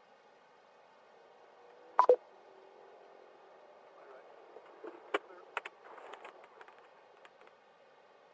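Police radio: a short, loud electronic beep about two seconds in, then faint crackling clicks and broken, garbled chatter over a low hiss.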